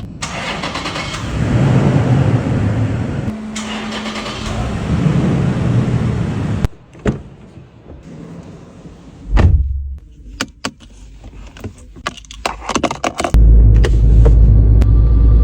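Toyota Land Cruiser Prado SUV: its engine runs with a low steady sound, then there is a quieter stretch of separate clicks and knocks from doors or controls, and from about two-thirds of the way in a much louder, steady low engine sound sets in.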